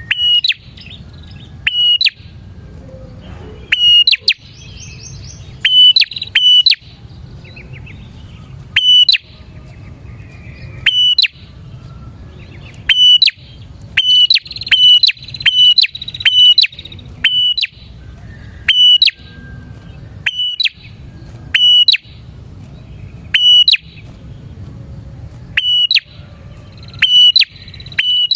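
Several bar-winged prinias (prenjak) calling loudly and insistently, repeating sharp, clipped notes every second or so. Around the middle they break into faster buzzy trills, over a low background rumble.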